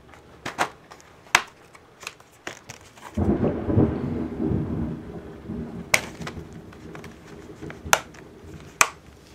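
A roll of thunder starts suddenly about three seconds in and rumbles low, fading over several seconds. Sharp clicks and taps come before it and a few more near the end.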